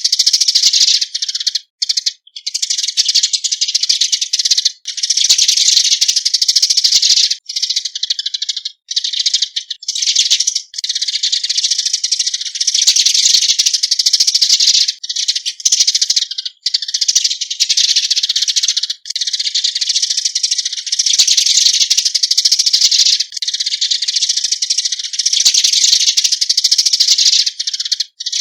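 Eurasian tree sparrows giving their flock-gathering call: a dense, high, rattling chatter of chirps, broken only by a few short pauses.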